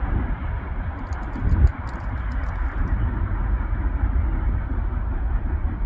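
Freight train rolling along the tracks: a steady low rumble with wheel noise, swelling briefly to a low thump, with a few light clicks in the first half.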